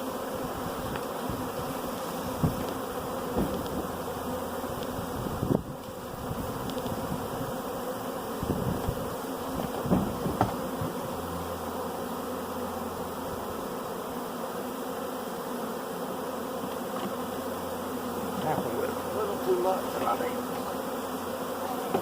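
A honey bee swarm buzzing steadily in a dense hum around the hive box as thousands of bees fly and settle, with a few short knocks about 2, 6 and 10 seconds in.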